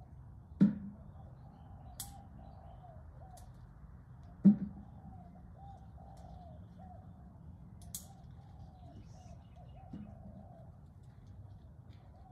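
Birds calling steadily, with two sharp thumps, about half a second in and about four and a half seconds in, and a fainter one near the end. A couple of short high clicks fall in between.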